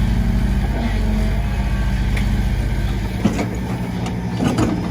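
Heavy diesel engine running steadily. A couple of short knocks come about three and four and a half seconds in.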